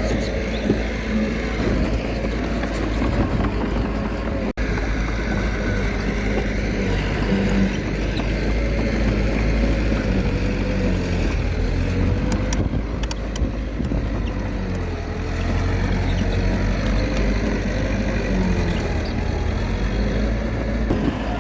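Komatsu D21A bulldozer's diesel engine running steadily under working load, its pitch rising and falling a little as it works, with a momentary dropout about four and a half seconds in.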